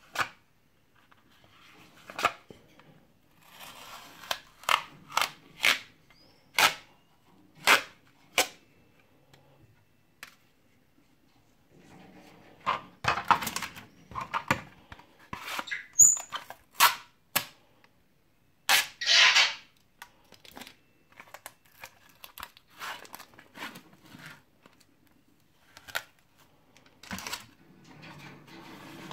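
Adhesive tape being pressed onto acrylic-spray-painted PLA 3D-printed parts and ripped off again and again, a paint adhesion peel test: a string of sharp, short rips with rubbing between, one longer pull a little past halfway.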